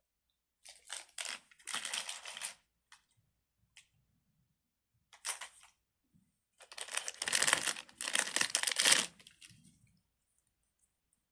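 Plastic crinkling and rustling, as of a fidget toy's wrapper or bag being handled, in a first stretch of about two seconds and a louder, longer stretch later on.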